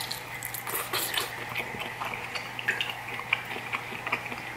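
Close-miked chewing of sauce-dipped lobster tail meat: irregular wet smacks and clicks of the mouth.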